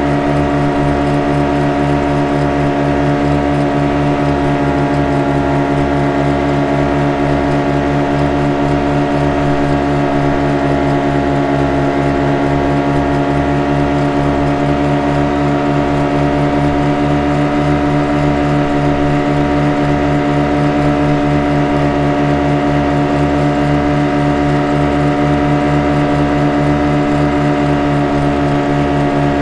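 Speedboat engine running steadily at an unchanging pitch, with a fast pulsing beat in the low end.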